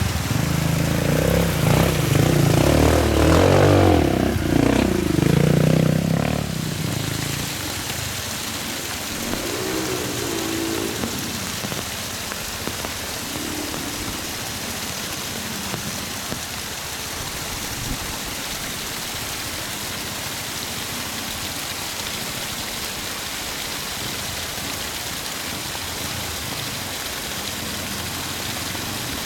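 Heavy rain falling steadily. For the first several seconds a vehicle engine runs loud over it, dying away about seven seconds in.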